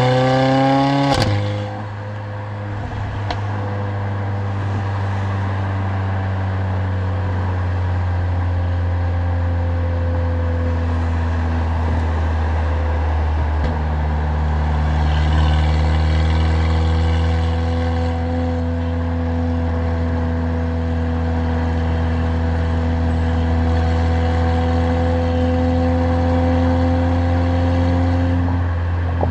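Mercedes-AMG CLA45's turbocharged four-cylinder engine and exhaust revving up through a gear, then a sharp crack at the upshift about a second in. After that a steady engine drone under way, its pitch climbing slowly in the second half as the car gathers speed.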